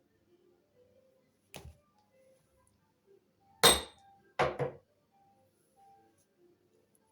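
Three sharp knocks of hard objects: a light click, then about two seconds later two loud clattering knocks close together, the first with a short metallic ring. Faint background music runs underneath.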